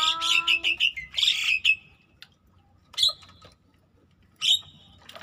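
Bird calls: a harsh squawking call, slightly falling, with a fast chattering edge, then two short high chirps.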